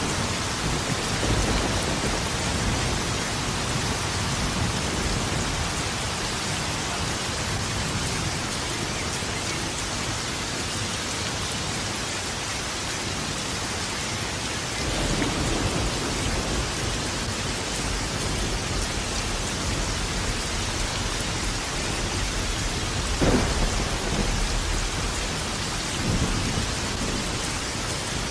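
Steady heavy rain with rolling thunder: low rumbles swell and fade several times, and a sharper thunder crack comes about two-thirds of the way through.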